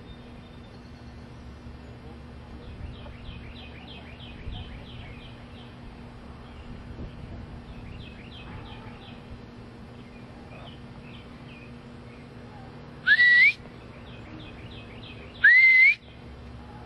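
Birds chirping in quick repeated series. Near the end come two loud, short rising whistles about two seconds apart.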